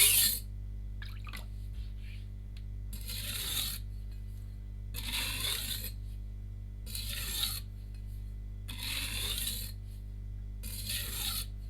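Cleaver's steel edge drawn across a wet whetstone in about five separate strokes, roughly two seconds apart, each a short scraping hiss. These are light finishing passes that follow the continuous grinding.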